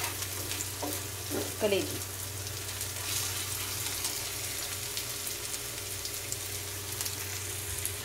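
Chopped onion, ginger and garlic sizzling in oil on a flat tawa griddle, stirred with a wooden spatula that scrapes the pan now and then.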